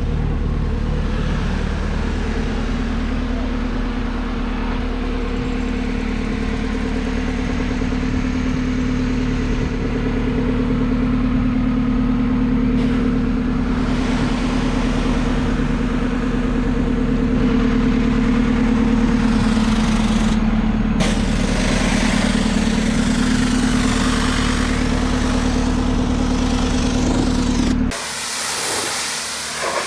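A machine running steadily with a constant low hum. A hissing spray of water grows louder over the second half, typical of a pressure washer blasting a hull. The sound cuts off abruptly near the end.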